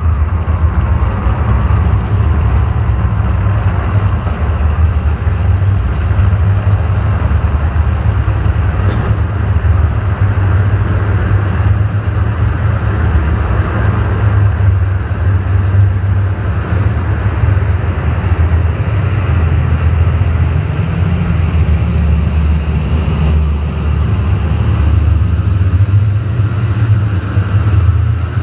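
Electronic ambient drone music from analog synthesizers: a loud, steady low drone with a noisy layer above it that swells and thins.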